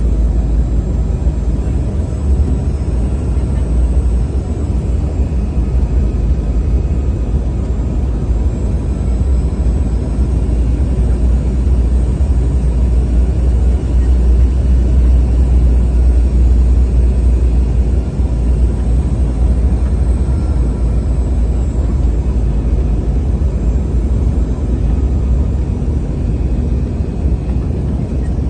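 Steady, loud cabin noise of an airliner in flight: a deep rumble of engines and rushing air, with a few faint steady tones above it.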